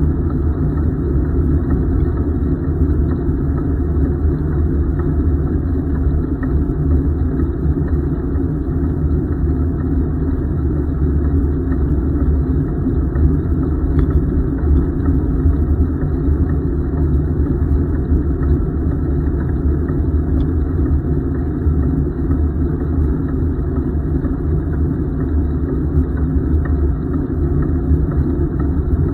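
Steady low rumble of wind buffeting the microphone and tyre noise from a bicycle rolling along a paved trail.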